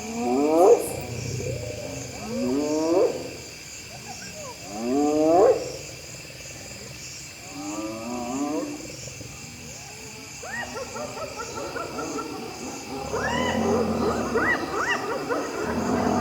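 Spotted hyenas calling at night: several long whoops, each rising in pitch, a few seconds apart. From about ten seconds in comes a dense clamour of many hyenas calling over one another, louder from about thirteen seconds. A steady chorus of insects trills underneath.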